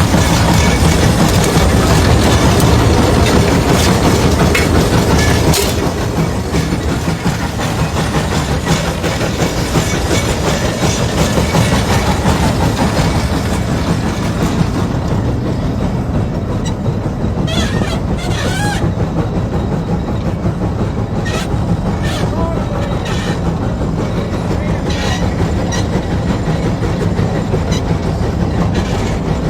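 Steam traction engine working hard under load, a loud steady heavy mechanical rumble that eases slightly about six seconds in, with a few sharp clicks later on.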